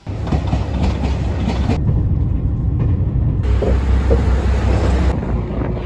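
Train running: a loud, heavy low rumble with rail noise, its character changing abruptly about every second and a half.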